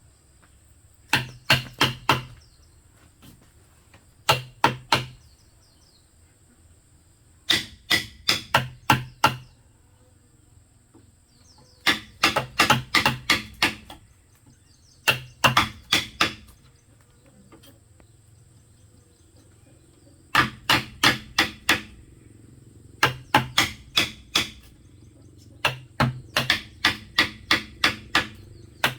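Sharp strikes on bamboo in quick bursts of three to seven blows, about four a second, with pauses of a few seconds between bursts, from hammering or chopping during work on a bamboo wall.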